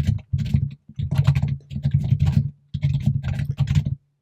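Fast typing on a computer keyboard: dense runs of keystrokes broken by short pauses, stopping just before the end.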